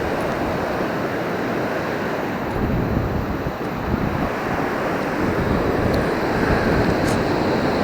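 Surf washing on the shore, with wind buffeting the microphone.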